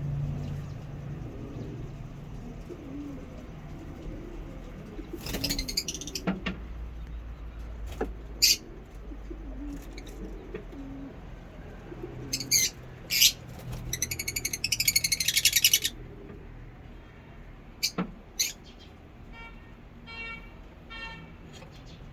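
Lovebirds calling: a scatter of sharp, shrill chirps, with a rapid chattering run of calls a little past the middle.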